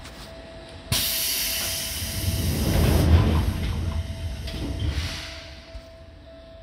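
Running sound of a Seibu 2000 series electric commuter train, with a steady thin hum. About a second in, a sudden loud rush of hissing noise breaks in, and a deep rumble builds under it and fades away over the next five seconds.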